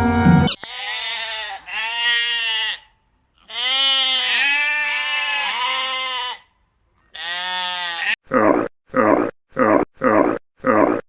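Goat bleating: four wavering, pitched calls, the third one long. About eight seconds in, the sound cuts to a different recording: a run of short, evenly spaced animal calls, about two a second.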